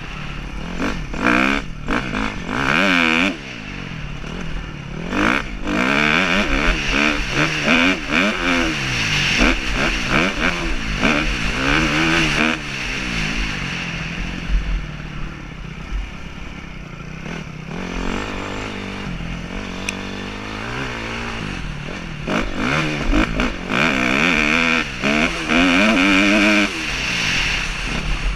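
Dirt bike engine being ridden, revving up and dropping back again and again as the throttle opens and closes, with wind noise on the helmet-mounted microphone.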